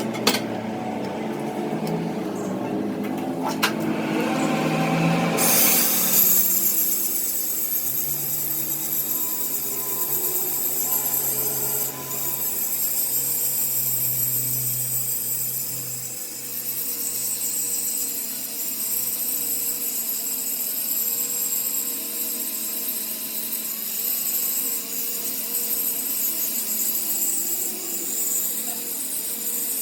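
Power tool running steadily on metal in a flywheel repair, a continuous high hiss that sets in about five seconds in after a few clicks and knocks.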